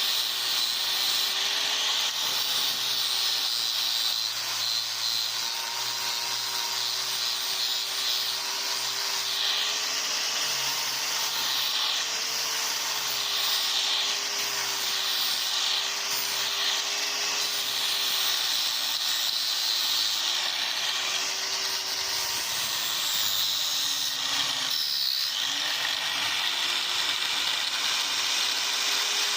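Electric power tool running continuously, likely a grinder or sander working the blade, with a steady hiss and motor hum. The pitch sags briefly near the end as the motor is loaded, then recovers.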